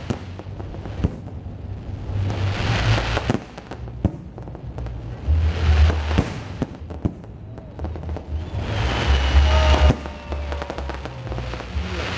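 Fireworks salute bursting overhead: repeated bangs and crackling from the shell bursts in loud swells, with a drawn-out whistling tone late on.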